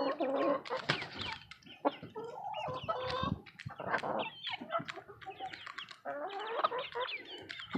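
Chickens clucking: many short, overlapping calls, with a few light taps in between.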